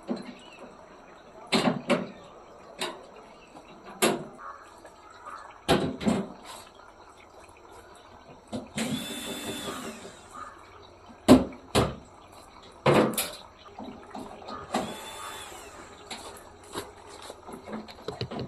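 Scattered sharp knocks and clatters of hands-on work, with two short runs of a small electric motor about a second long, one midway and one a few seconds later.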